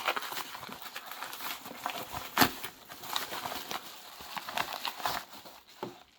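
Hands opening a small parcel: packaging rustling and crinkling, with scattered light clicks and knocks and one sharper, louder click about two and a half seconds in.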